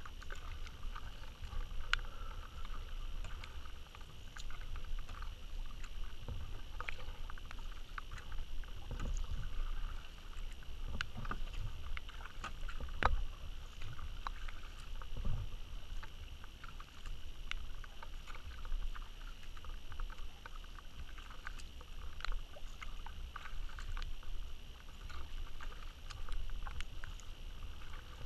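Kayak paddling: paddle strokes in river water with splashing, and scattered sharp clicks and knocks every second or two over a low rumble.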